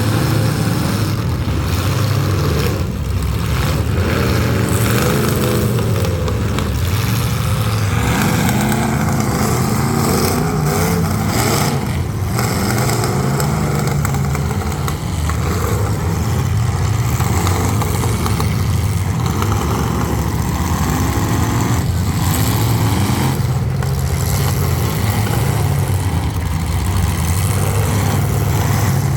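Several full-size demolition derby cars' engines running loud and revving up and down at once as the cars drive and hit each other, with a few sharp bangs of impacts, about one every several seconds.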